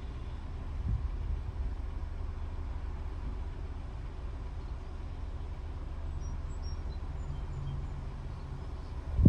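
Steady low background rumble, with a few faint, brief high bird chirps about six seconds in.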